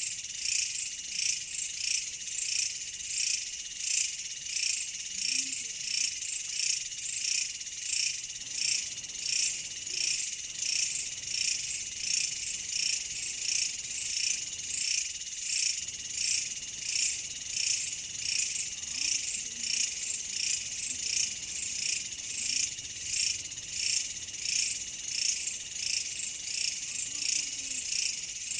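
A chorus of calling insects, a continuous high-pitched chirring that pulses evenly about one and a half times a second.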